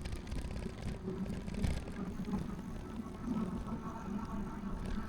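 Ride noise from an electric recumbent bike under way: a steady low rumble of wind and rolling tyres on the path.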